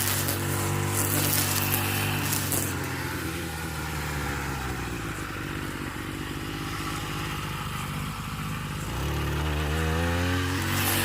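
A small engine running steadily, easing off to a lower, quieter note about three seconds in, then revving back up with a rising pitch near the end.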